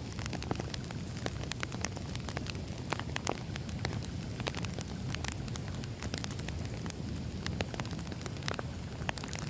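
Wood fire crackling: a steady low rumble of burning logs with frequent, irregular sharp pops and snaps.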